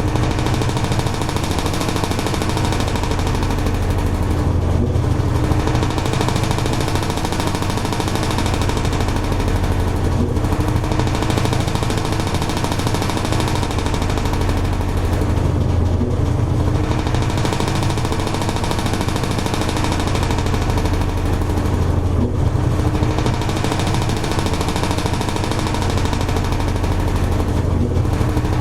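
Toshiba AW-42SEE4 fully automatic top-loading washing machine running: a steady low motor hum under an even churning noise, with the upper noise easing off briefly about every six seconds.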